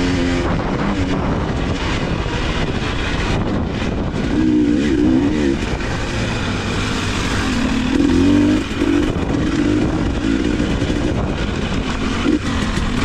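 Dirt bike engine revving up and down as it is ridden hard on a trail, the pitch rising and falling with each throttle change, over steady wind and riding noise.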